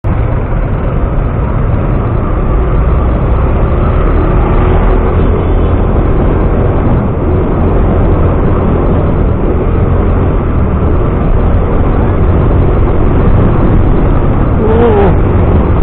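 Steady road noise from a vehicle in motion: engine rumble with wind and tyre noise, loud and even throughout.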